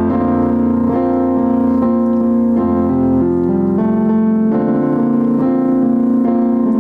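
Keyboard playing slow, held chords that change every second or so.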